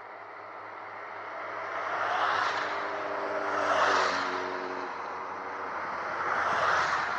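Road vehicles passing by, heard as three swells of tyre and road noise about 2, 4 and 7 seconds in. The middle pass carries an engine hum.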